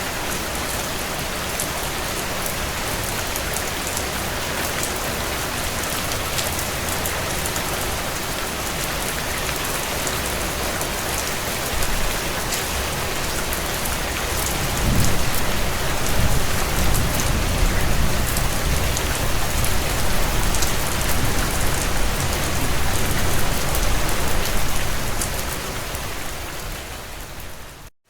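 Heavy rain drumming on a tin roof: a dense, steady patter with sharp drop ticks. About halfway through, a low rumble swells in under the rain for around ten seconds. Near the end the whole sound fades out briefly and then returns.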